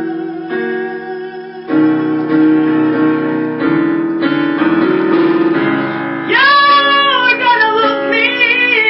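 Piano playing sustained chords of a bluesy jazz accompaniment. About six seconds in, a woman's voice joins, singing a held, wavering line over the piano.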